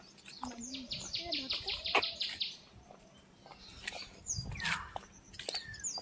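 Birds chirping in garden trees. A fast trill of about a dozen high notes starts about half a second in and lasts about two seconds, with scattered single chirps after it.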